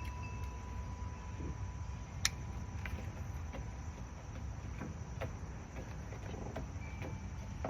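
Small scissors snipping while a cannabis plant is trimmed by hand: scattered sharp clicks, the loudest about two seconds in, over a steady low background rumble. A faint steady high tone runs through the first two seconds and then stops.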